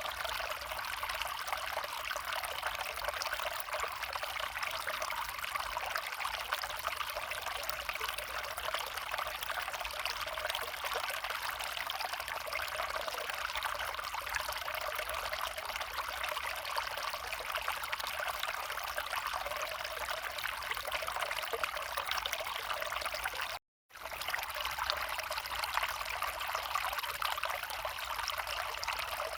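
Small forest stream flowing and trickling in a steady, unbroken babble. The sound drops out completely for a split second near the end.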